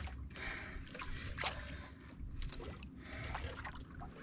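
Water sloshing and trickling against the hull of a small fishing boat, in soft irregular splashes.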